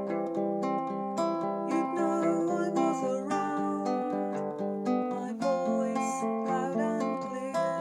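Baritone ukulele playing a song, a steady run of plucked notes ringing over one another.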